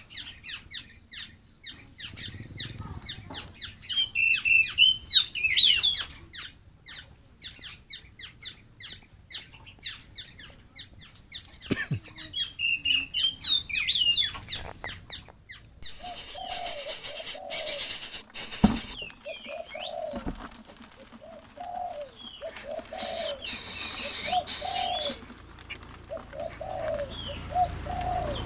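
Kept birds: quick high chirps and rapid ticking in the first half. Later come loud bursts of wing flapping, and a dove coos repeatedly through the second half.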